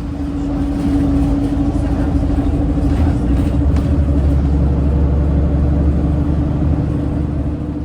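A vehicle running steadily: a loud low rumble with a constant hum.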